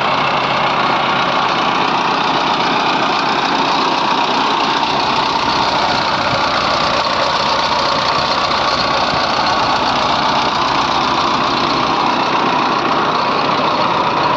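Diesel engine of heavy machinery running steadily and loudly, with no clear revving or change.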